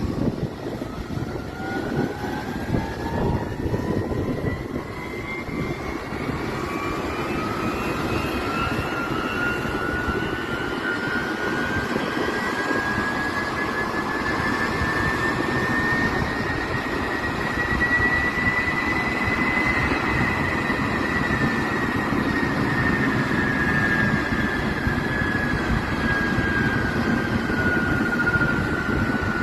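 Aircraft turbine engine running on a ground engine test, its whine climbing slowly in pitch for about twenty seconds as it spools up, then easing a little lower near the end, over a steady rushing noise.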